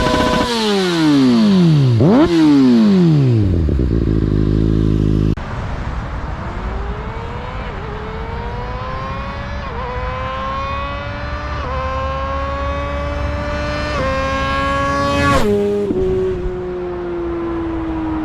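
Kawasaki ZX-6R 636 inline-four with an Akrapovič exhaust, revved sharply twice and dropping back to idle. Then the bike accelerates, its revs climbing with brief dips at each quick upshift, and about fifteen seconds in the throttle closes and the revs fall away as it slows.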